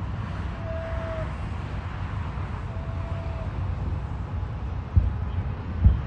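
Outdoor city ambience: a steady low rumble, with two short, steady, horn-like tones early on and a couple of low thumps near the end.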